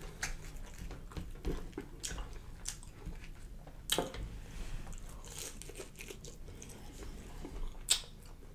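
Close-miked chewing of fried catfish fillet: soft crunching and mouth clicks, with two sharper clicks about four seconds in and near the end.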